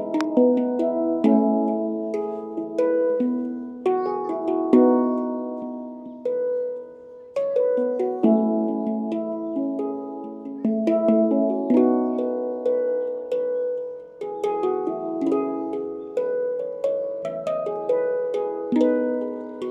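Handpan played by hand: a flowing melody of struck, ringing steel notes that overlap and sustain. There is a brief lull about seven seconds in, then the playing picks up again.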